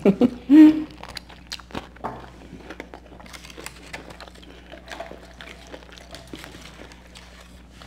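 Close-up eating sounds: scattered small clicks, crackles and chewing noises from people eating fried chicken wings and fries, after a brief voiced sound near the start.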